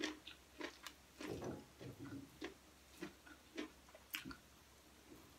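Close-up mouth sounds of someone eating: soft, irregular chewing clicks and lip smacks.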